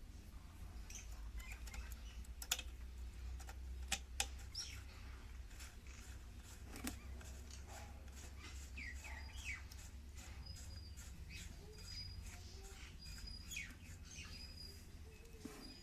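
Faint bird chirps: short high whistles and quick falling notes, with a few sharp light clicks scattered through.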